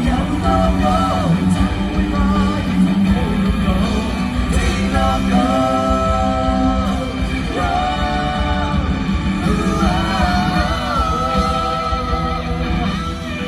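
A rock band playing live, with the singer holding long notes and sliding between them over guitar, bass and drums.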